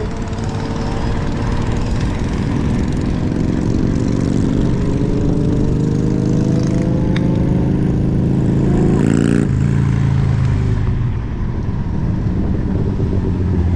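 Electric scooter on the move: its motor whine climbs slowly in pitch for several seconds as it gains speed, over a steady rush of road and wind noise, then the whine cuts off abruptly about nine and a half seconds in.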